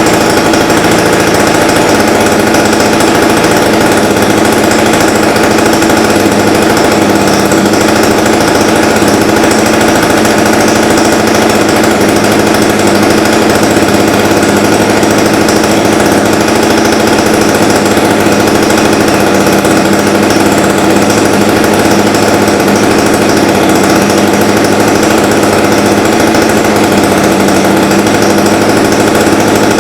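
ZDZ 40 RV two-stroke petrol model aircraft engine running at a steady speed, its high-speed needle set a little rich.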